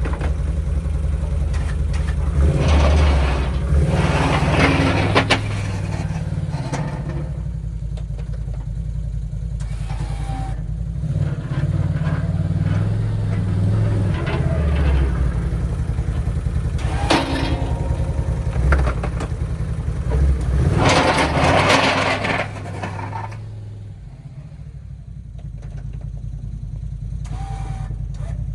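Can-Am Outlander ATV engine running steadily while plowing snow. Twice the noise swells into a louder stretch, a few seconds in and again past the middle, then the engine eases off and quietens near the end.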